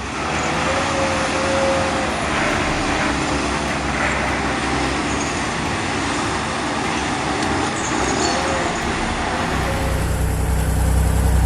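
Heavy truck engine and road noise, a dense steady wash with a faint wavering whine. About nine and a half seconds in it gives way to a louder, deeper engine rumble.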